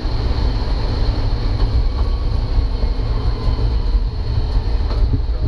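1967 Kaiser Jeep M715 military truck driving along, its 230 cubic inch Tornado overhead-cam six running steadily under a loud, even drone of engine, drivetrain and road noise.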